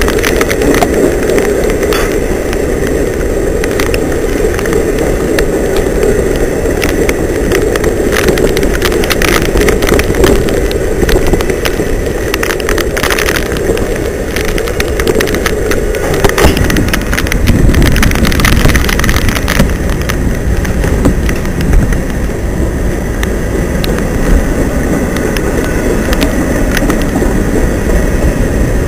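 Long freight train of covered hoppers and empty stone cars rolling steadily past, with a continuous rumble of wheels on rail broken by many sharp clicks and clatters. The tone of the rumble changes about sixteen seconds in.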